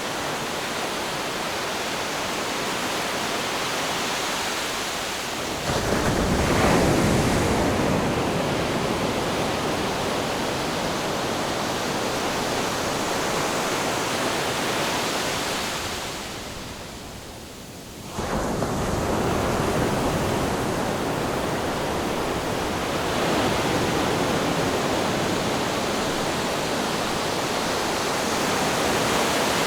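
Ocean waves breaking and washing ashore as a continuous rush of surf, with a heavier wave surging in about six seconds in, a short lull around sixteen seconds, and the surf coming back abruptly at about eighteen seconds.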